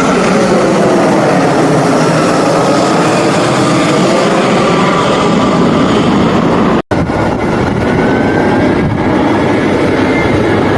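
Loud engine noise of an airliner or other aircraft passing close, with tones sliding in pitch through the noise. The sound breaks off for an instant about seven seconds in, then the steady engine noise carries on.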